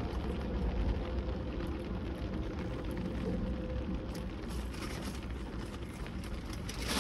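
A person chewing crispy french fries inside a car, an irregular crackly crunching over a steady low rumble in the cabin.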